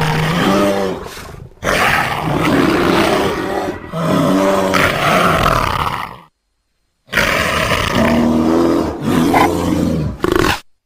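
Designed creature roars and growls for Megalictis, mixed from leopard and bear recordings: several rough, loud roars, broken by a full silence about six seconds in, then another roar and a short final growl near the end.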